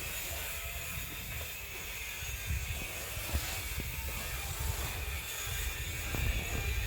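A BMX bike rolling over dirt trails, its freewheel ticking, with a low rumble and scattered clicks.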